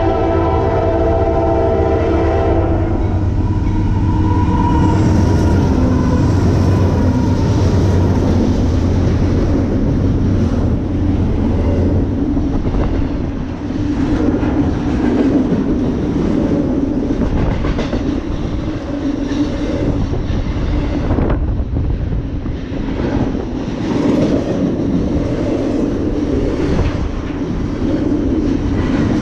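A freight locomotive sounds a multi-note horn that stops about two and a half seconds in, and the diesel engines of the lead locomotives drone past. From about twelve seconds in, the steady rumble and clatter of the freight cars' wheels on the rails takes over.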